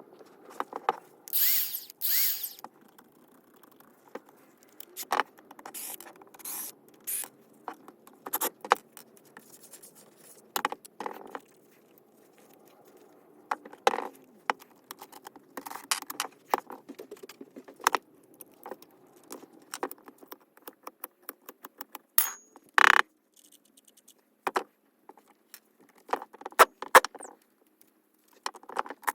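Hard objects being handled: scattered clicks, knocks and short scrapes of tool parts, with no motor running.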